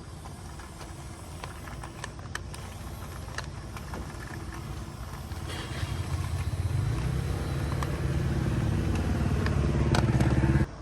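A motor running with a steady low hum that grows louder over the second half and cuts off abruptly near the end, with a few light clicks earlier on.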